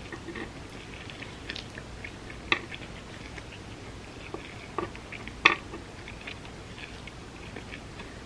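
Close-up chewing of vegan spam musubi: a run of soft, wet mouth clicks, with a few sharper clicks standing out, the loudest about five and a half seconds in.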